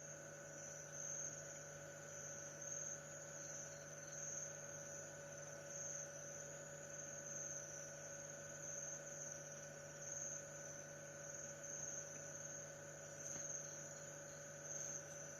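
High-pitched insect trilling, typical of crickets, swelling and fading every second or two over a steady low electrical hum.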